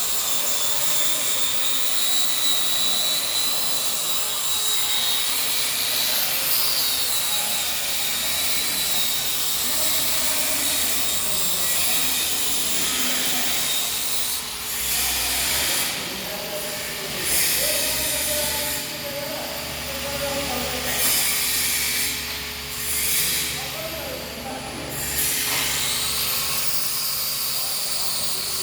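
Small angle grinder with a 4-inch buffing disc running against the inside wall of a 30-inch pipe: a steady high whine over a hiss. In the second half its pitch and loudness dip and recover several times as the disc is pressed on and eased off.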